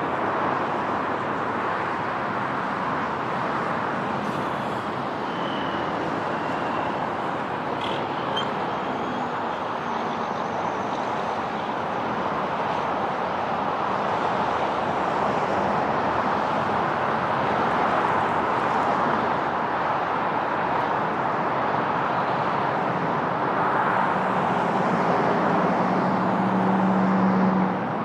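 Jet aircraft engine noise, a steady rushing sound with a faint high whine about five to eight seconds in, growing slightly louder toward the end.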